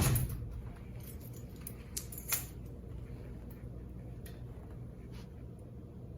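A loud metallic clank that rings away over about half a second, then two sharp clicks about two seconds in and a few faint ticks, over a steady low machine hum.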